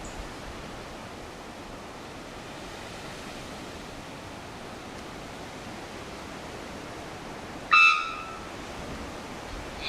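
Steady rushing outdoor noise, with one brief, loud pitched call or tone about three-quarters of the way through and a fainter one near the end.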